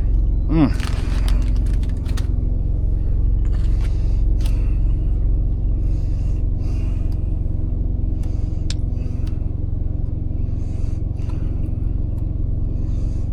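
Semi truck's APU (auxiliary power unit), a small diesel engine, running with a steady low drone, with light clicks and rustles now and then.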